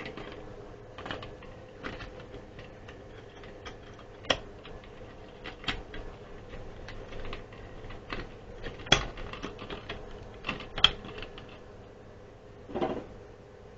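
Fluorescent tubes being fitted back into the fixture's sockets: a run of irregular small clicks and taps, with a few louder clicks spread through and a duller knock near the end.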